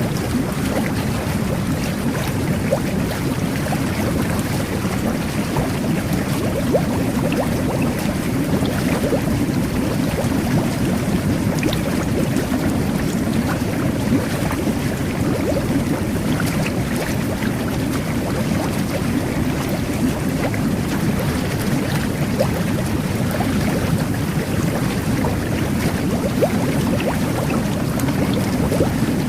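Jet bath churning bathwater into a steady, continuous rush of bubbles, with many small bubble pops through it.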